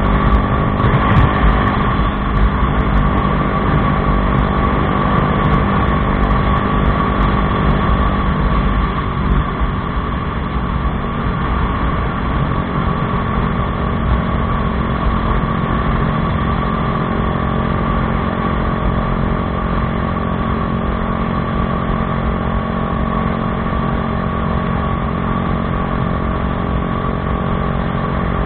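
Bajaj Dominar 400's single-cylinder engine running at a steady speed through an aftermarket Akrapovič exhaust.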